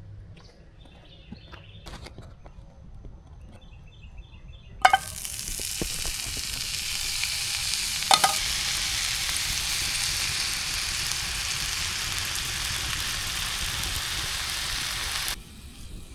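Food sizzling in a hot frying pan: a loud, steady hiss starts suddenly with a sharp clack about five seconds in, has another clatter partway through, and cuts off abruptly near the end. Before it, only faint scattered clicks.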